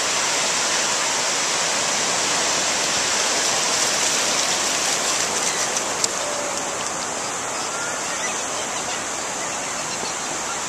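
Ocean surf breaking and washing up the beach in a steady rush of noise, with one short sharp click about six seconds in.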